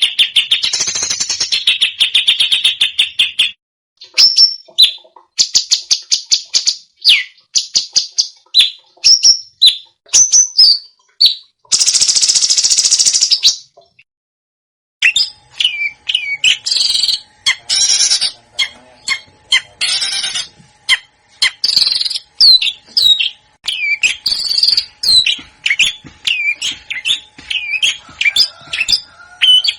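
Recorded songbird song compiled as a masteran training track for caged songbirds. It opens with a fast trill, then a string of short sharp notes and a harsh buzzing burst. After a short gap come quick down-slurred chirps repeated over and over, with a faint steady hum beneath them.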